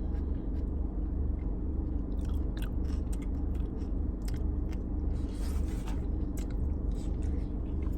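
Close-up chewing and biting of food, with scattered short wet mouth clicks, over a steady low hum.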